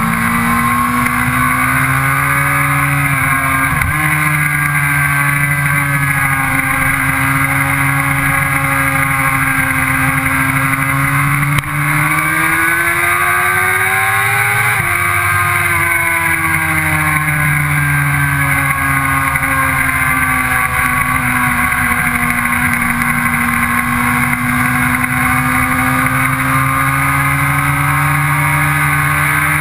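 Sport motorcycle engine running hard at track speed, heard from on board with wind rush over it. Its pitch swells and sags with throttle through the corners, climbs steadily for a few seconds and drops sharply about halfway through as the bike shifts up a gear.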